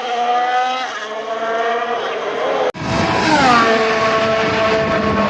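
Audi Formula 1 car's turbocharged V6 running at high revs, its pitch climbing at first. About halfway through the sound cuts off for an instant, then comes back louder with the pitch falling and then holding steady.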